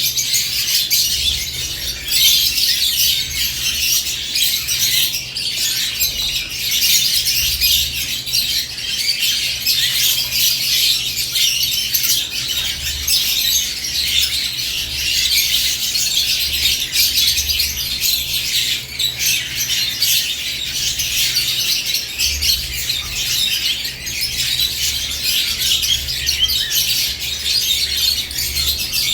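A flock of caged lovebirds chirping and squawking in a continuous, dense high-pitched chatter.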